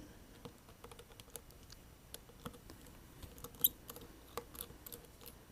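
A small Phillips screwdriver turning out a tiny screw inside a Samsung Galaxy S7: faint, irregular clicks and ticks, with one sharper click about three and a half seconds in.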